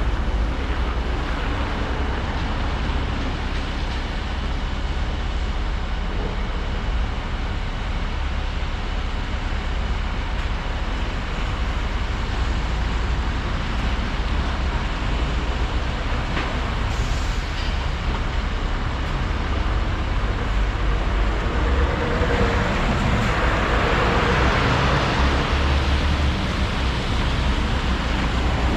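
Volvo 235EL excavator's diesel engine and hydraulics running steadily, growing louder for several seconds near the end as the machine works.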